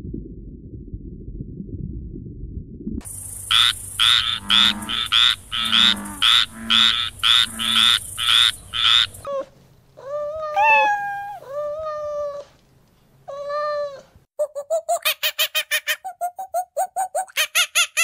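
A run of different animal calls cut one after another: a low rumble, then a train of short rasping calls about two a second, then several long mewing calls from a Eurasian lynx that rise and fall in pitch, then a quick string of short calls about five a second.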